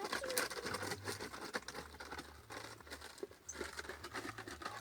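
Light patter of small knocks and rustling as the feeder's water dish is washed and bird feed is handled, with a short chicken cluck right at the start.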